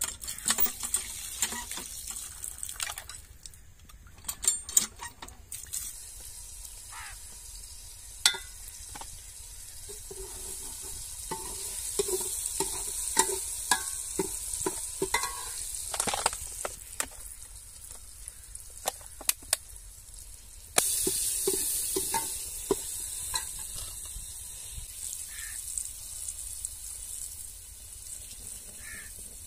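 Food frying in hot oil, a steady sizzle, with a spoon stirring and clinking against the pan. The sizzle suddenly gets louder about two-thirds of the way through.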